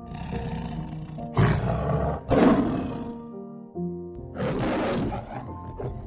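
Male lion giving three loud, hoarse calls, two close together and a third a couple of seconds later, over soft piano music.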